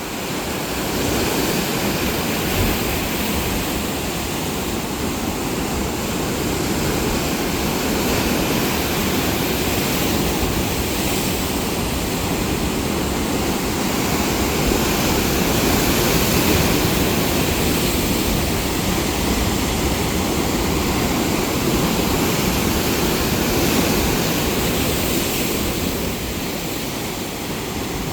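Sea waves breaking and washing on a shore: a continuous rush of surf that swells and eases slowly over several seconds.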